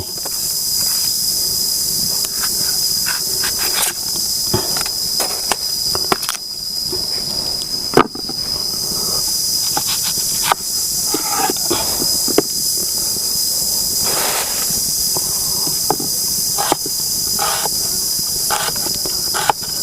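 A knife slicing water lily stems, irregular short crisp cuts and knocks, over a steady high-pitched drone of insects.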